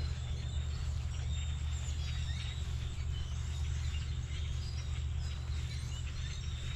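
Wild birds chirping and calling repeatedly over a steady low rumble.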